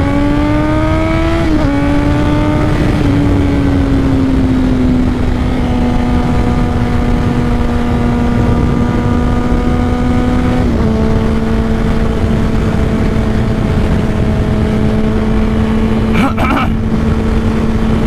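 Honda CBR600RR inline-four running through a Two Brothers full exhaust under way. The engine note rises for about a second and a half, drops, then holds a nearly steady pitch with a slight dip later on, over a constant rush of wind.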